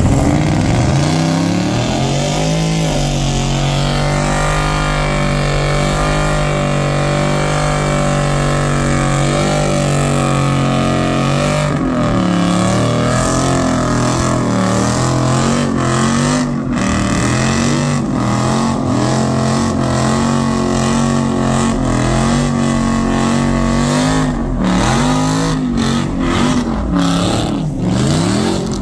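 Car engine revved hard: it climbs, holds at a steady high rpm for several seconds, then is blipped up and down again and again through the rest.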